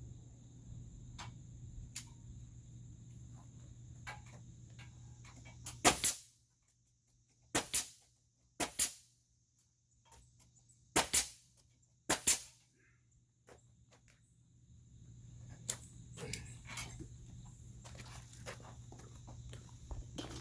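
Pneumatic nail gun firing nails into lumber framing: about nine sharp bangs, mostly in quick pairs, between about six and thirteen seconds in. A steady low hum runs before and after them.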